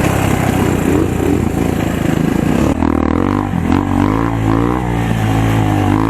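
Dirt bike engine running rough and noisy at first, then from about halfway through revving up and down over and over as the throttle is worked.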